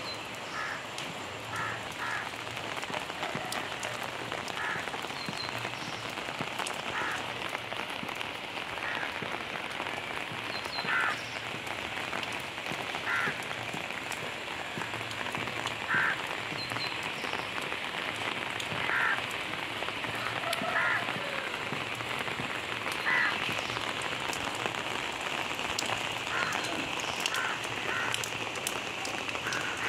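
Steady rain falling on leaves and the ground, an even hiss throughout. Short animal calls repeat every couple of seconds over the rain.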